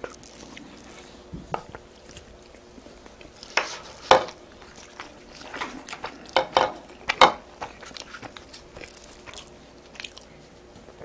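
Close-miked eating: chewing and biting with scattered crunches, the loudest about four and seven seconds in.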